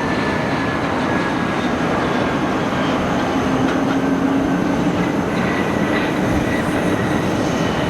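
Jet airliner engines running loud and steady, with a faint high whine that slowly falls in pitch.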